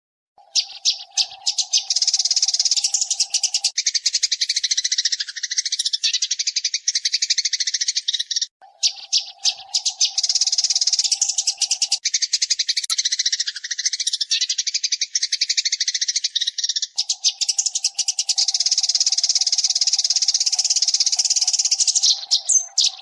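Eurasian tree sparrows chirping in a fast, dense, unbroken stream of high chirps, as a tutor recording, in three long runs with short breaks about 8 seconds and 17 seconds in. A steady lower tone sits under the first few seconds of each run.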